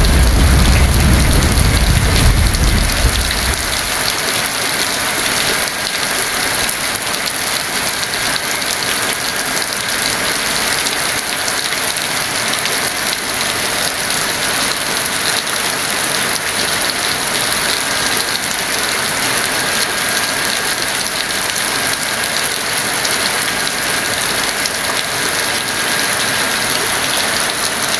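Heavy rain falling steadily in an even hiss, with a low thunder rumble dying away over the first few seconds.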